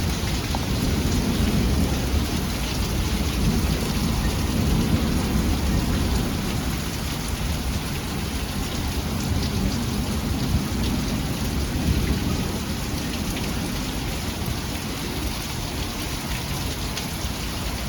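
Heavy rain pouring steadily in a thunderstorm, with a low rumble of thunder that swells over the first few seconds and again about twelve seconds in.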